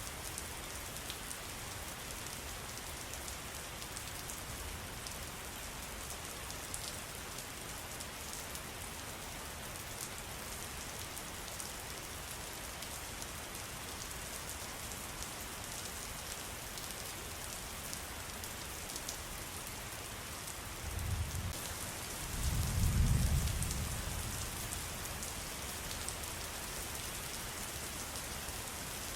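Steady pattering of falling water with fine drop ticks. A low rumble swells and fades about three-quarters of the way through.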